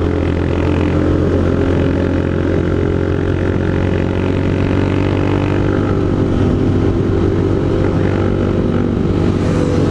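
Honda CG Fan 160 single-cylinder engine with an aftermarket Pro Tork GP Competition exhaust, running steadily at an even pitch under way.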